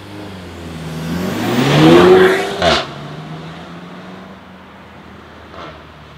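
Renault Mégane RS 1.8 turbo four-cylinder engine revving up, its pitch and loudness rising to a peak about two seconds in, then cutting off sharply with a crack and settling back to a steady lower run.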